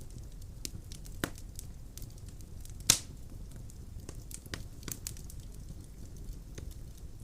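Wood fire burning in a fireplace, a low steady rumble of flames with scattered crackles and pops of burning logs; one sharp loud pop about three seconds in, and a few quick pops a little later.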